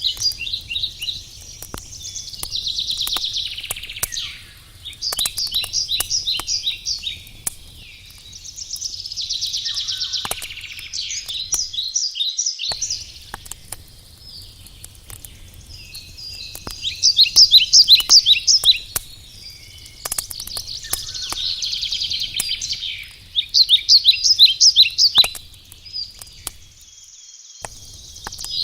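A songbird singing loud phrases of rapid, trilled notes, repeated every few seconds, over a wood campfire's scattered sharp crackles and a low steady rumble.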